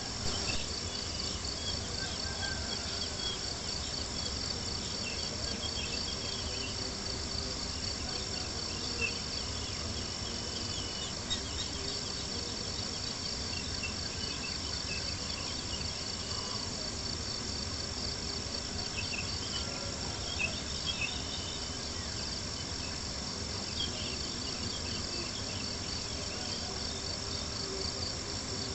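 Crickets chirping in a steady, fast pulsing trill, with occasional sharp pops and crackles from a campfire.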